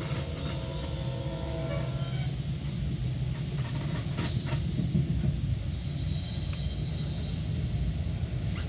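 Steady low rumble of a Metra commuter train heard from aboard. A few clicks come about four seconds in, and faint tones sound over the first two seconds.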